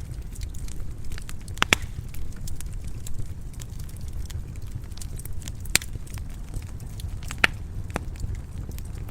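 Wood fire crackling in a stone fireplace: a steady low rumble of flames with scattered sharp pops. The loudest pops come a little under two seconds in, just before six seconds, and past seven seconds.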